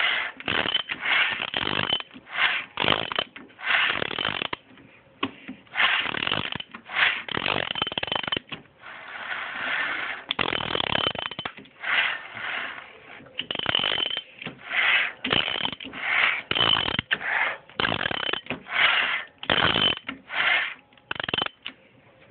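A harsh mechanical noise in short, irregular bursts, about one or two a second, from the engine bay above the starter. It appears when the control is turned the other way, and the owner suspects a fault there.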